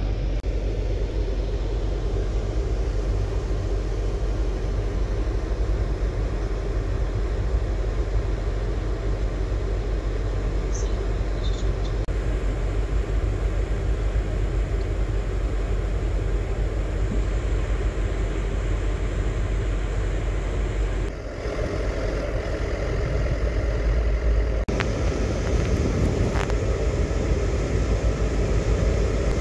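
Steady low rumble of a passenger train running, heard from inside the carriage. About 21 s in it dips briefly, and from about 25 s in it gets louder and hissier.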